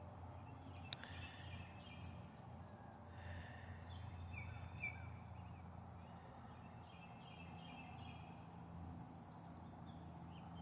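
Faint, scattered chirps and short calls of small birds at backyard feeders, with a few sharp ticks, over a steady low background hum.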